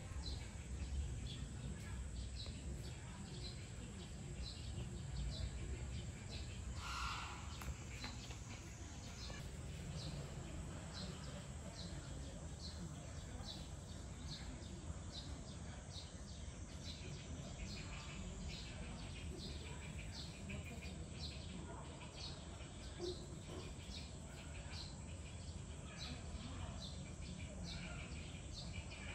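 A bird chirping over and over, short high chirps at about one to two a second, with one louder call about seven seconds in, over a steady low background rumble.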